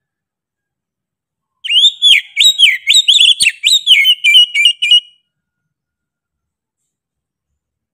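Oriental magpie-robin (kacer) singing one fast phrase of loud whistled notes that swoop up and down, lasting about three and a half seconds.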